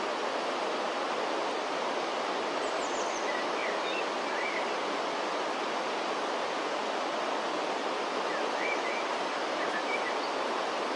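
River water rushing steadily, with a few faint, brief bird chirps about a third of the way in and again near the end.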